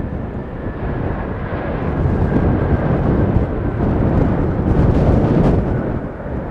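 Airbus A380's four jet engines rumbling loudly on its landing approach, with a faint engine whine early on. The rumble swells about two seconds in and is loudest near the end, with wind noise on the microphone in strong gusts.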